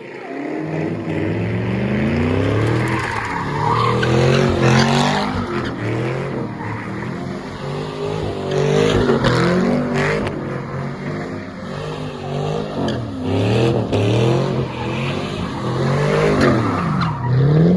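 A car doing a burnout: the engine is revved up and down again and again while the tyres spin and squeal on the pavement.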